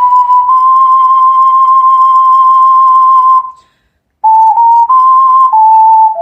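Solo ocarina playing a slow melody: one high note held for about three and a half seconds with two short tongued re-attacks, a brief gap, then a few shorter notes stepping downward.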